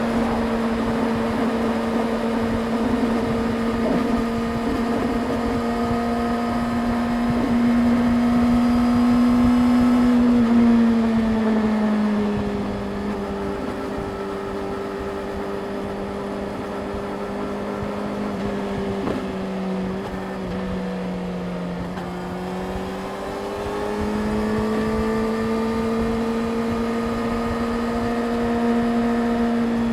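Yamaha YZF-R6's 600 cc inline-four engine running at a steady cruising pitch. The note drops about ten seconds in as the throttle eases, holds lower for a while, then climbs back up near the end.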